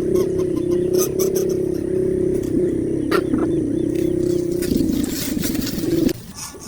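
A steady engine hum, slightly wavering in pitch, that cuts off suddenly about six seconds in, with faint high chirps over it.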